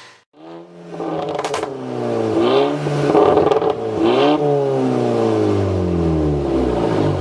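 Volkswagen Scirocco engine with a Stage 2 remap being revved twice, its pitch climbing and dropping each time. Crackles and a few sharp exhaust pops from the pop-and-bang map sound near the peaks, followed by a long falling pitch as the revs drop off.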